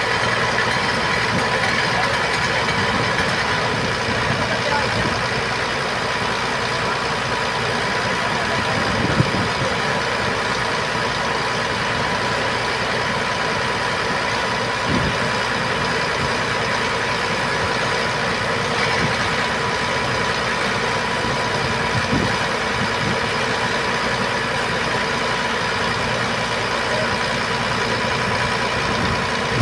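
Truck engine running steadily at idle, with a few brief knocks spread through it.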